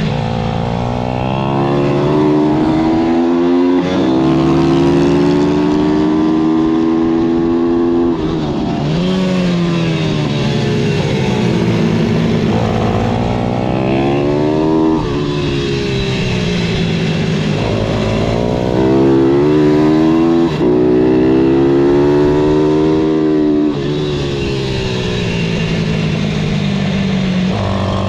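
Pit bike engine revving hard, its pitch climbing under acceleration and then dropping off sharply, again and again, as the bike is ridden through the gears and corners of a kart track.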